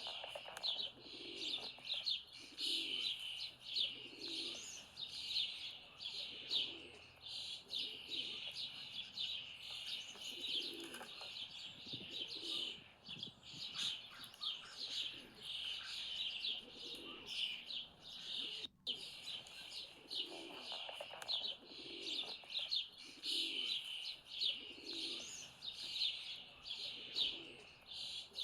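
High songbird chirping and singing that never lets up, with a pigeon's low coo repeating underneath about once a second.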